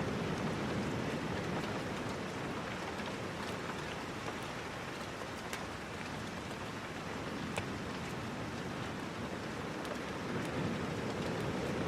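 Steady rain, with a few sharp crackles from a wood fire scattered through it, the sharpest about seven and a half seconds in.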